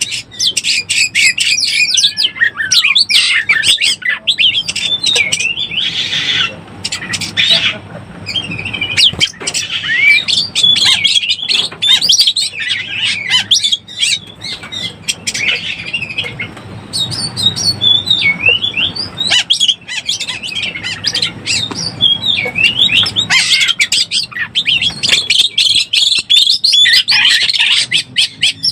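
Oriental magpie-robin (kacer) in breeding condition singing a rapid, unbroken string of varied whistles, sweeping up and down in pitch, mixed with short scratchy notes: the male's mating song, used as a lure call.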